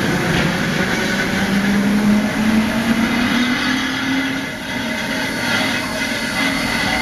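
Steam locomotive being turned on a railway turntable: a steady mechanical din with a low hum that slowly rises in pitch for a few seconds, then fades.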